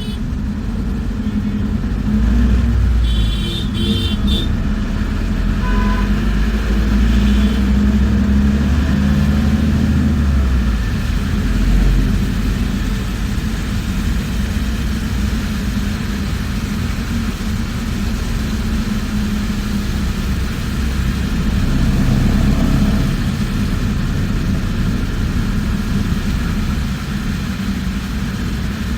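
Inside a moving bus: steady low engine and road rumble, swelling louder for about ten seconds from two seconds in and again briefly a little past twenty seconds in, with a few short high tones about three to four seconds in.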